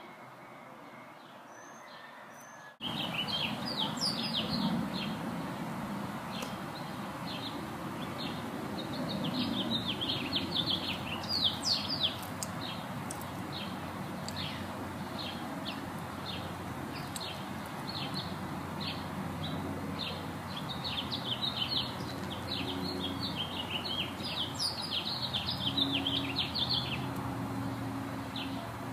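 Small birds chirping busily, with many quick down-slurred chirps starting about three seconds in, thickest around ten seconds and again around twenty-five seconds in, over a low steady background rumble.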